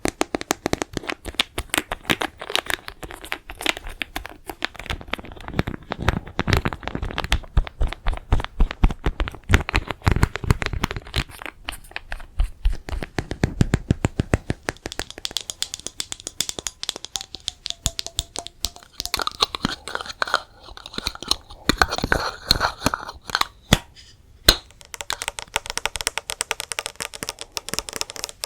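Close-miked ASMR tapping: a dense run of small sharp taps and clicks, becoming sparser and lighter after about halfway, with some rustling.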